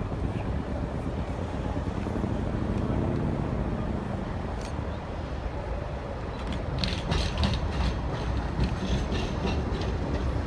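Blackpool Bombardier Flexity 2 tram 008 passing with a steady low rumble. About two-thirds in, its wheels start clicking and rattling over the track.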